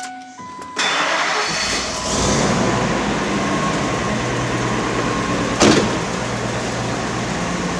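A 2001 Ford F-350's 6.8-litre V10 is cranked and starts about a second in, picks up briefly, then settles into a steady idle with what the owner hears as a slight miss. There is one sharp click about six seconds in.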